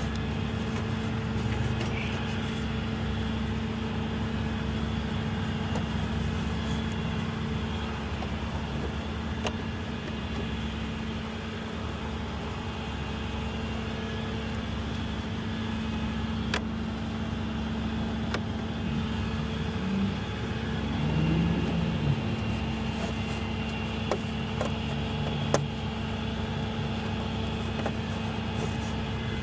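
Motor vehicle running steadily, a constant low hum with rumble underneath and a few faint clicks.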